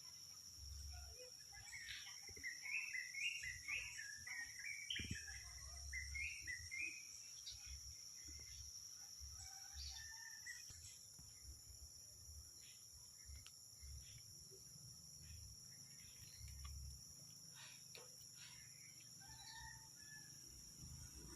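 Quiet rural field ambience: a steady high-pitched insect drone throughout, with a run of small bird chirps in the first several seconds and a few soft clicks and rustles.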